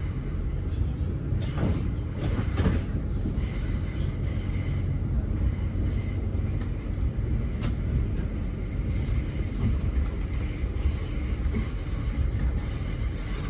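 Interior of a Great Western Railway Class 800 train on the move, heard from inside the coach: a steady low rumble of wheels on rail, with a single sharp click about halfway through.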